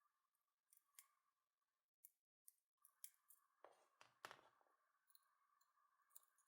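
Faint snips and clicks of cutters removing the old copper winding from the Hammer UDD950A hammer drill's motor armature, with two louder snips about four seconds in, over a faint steady high hum.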